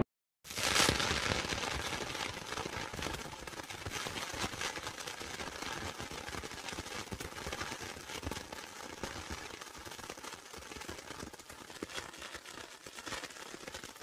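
Fireworks going off: a sudden loud burst about half a second in, then dense, rapid crackling pops that slowly fade.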